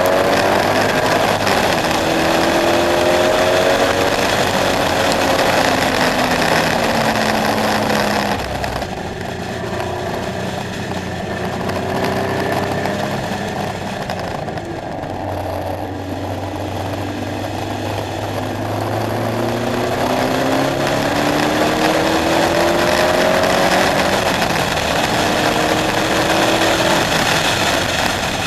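KTM X-Bow's engine accelerating through the gears, its pitch climbing and dropping back at each upshift. About a third of the way in it eases off to a lower, quieter, steadier note for several seconds, then pulls up through the gears again.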